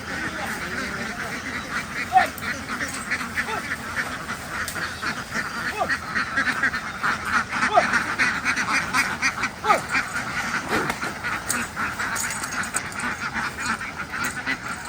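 A large flock of domestic ducks quacking together in a dense, unbroken chorus of overlapping calls.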